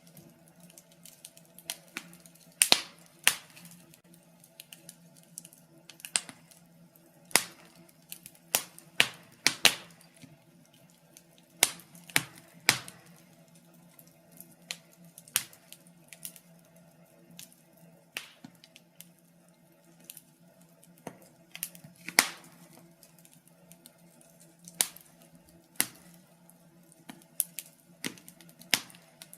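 Wood fire in a fireplace crackling, with irregular sharp pops and snaps, roughly one a second and sometimes two in quick succession, over a faint steady low hum.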